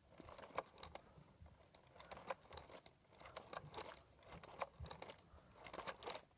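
Faint, irregular clicking and light rattling of plastic LEGO pieces being handled.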